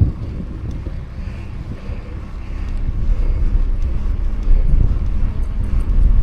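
Wind rumbling on the microphone of a mountain bike riding along a road, getting louder about halfway through.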